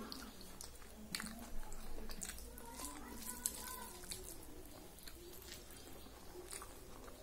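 Close-up eating sounds: a person chewing rice and dal eaten by hand, with scattered sharp mouth clicks and smacks. Faint voices in the background.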